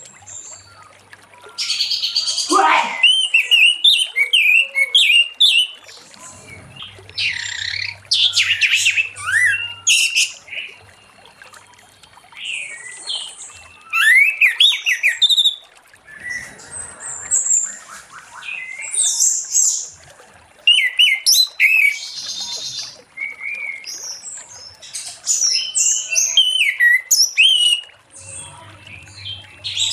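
Orange-headed thrush (anis merah) singing a long, varied song of quick whistled notes and trills, delivered in phrases of a few seconds separated by short pauses.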